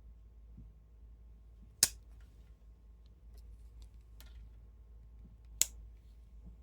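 Two sharp metallic clicks of a Barlow pocketknife's blade snapping into place, nearly four seconds apart, with lighter ticks of handling between them.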